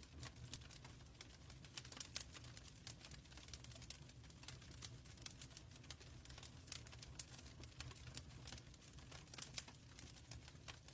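Wood fire burning in a fireplace, crackling with frequent irregular pops and snaps over a low steady rumble.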